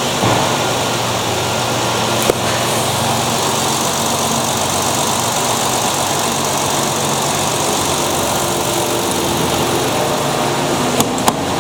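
2005 Holden Rodeo's 3.5-litre V6 engine idling steadily, with a sharp click about two seconds in and two more near the end.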